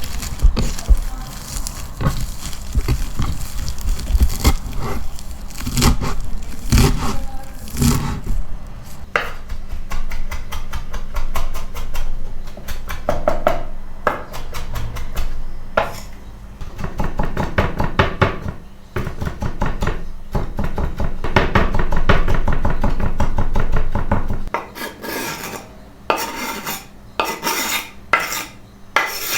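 Kitchen food preparation: utensils clinking against dishes, with a long run of rapid, even knife strokes on a wooden cutting board through the middle.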